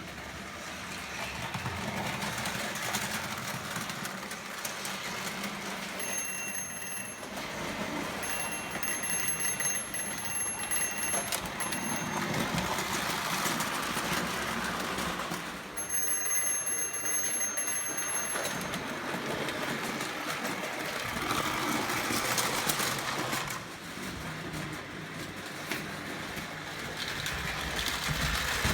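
Prewar Lionel O gauge toy train running on tinplate track with a steady rolling noise. A high ringing tone sounds three times over it: briefly about six seconds in, for about three seconds soon after, and for a couple of seconds just past the middle.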